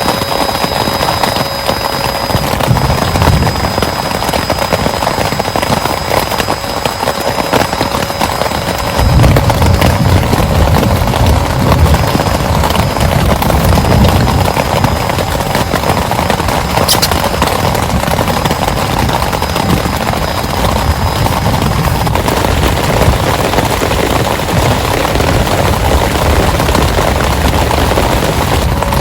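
Heavy rain falling steadily, dense and loud, with a low rumble coming in about nine seconds in and running on.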